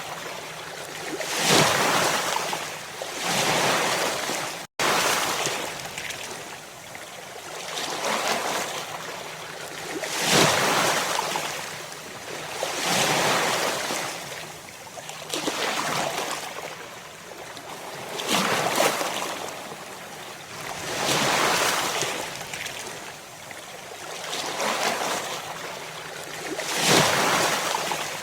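Ocean surf: waves breaking and washing in, one surge after another every two to three seconds. There is a momentary dropout about five seconds in.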